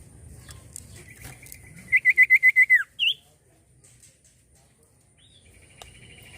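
Common iora (cipoh) calling: a sustained trilled whistle that quickens into about eight loud pulses and drops away at the end, followed by a short rising note. A fainter trill starts near the end.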